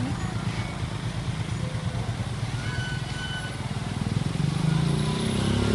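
Diesel truck engine running at low revs with a fast, even low pulse, growing louder and rising slightly in pitch over the last second or two.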